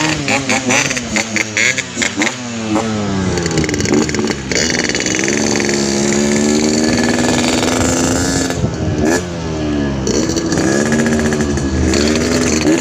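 Yamaha RX-King's two-stroke single-cylinder engine revved through its exhaust. It starts with a string of quick throttle blips, then a long rising rev held for about four seconds, which drops off suddenly and is followed by more quick blips.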